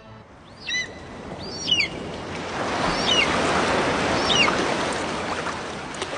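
A bird calling four times, short whistled chirps that bend down in pitch, over a steady rushing noise that swells in the middle.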